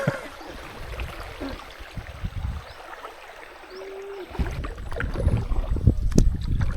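Kayak being paddled: water swishing and occasional knocks of the paddle on the hull, with a low rumble growing louder from about halfway.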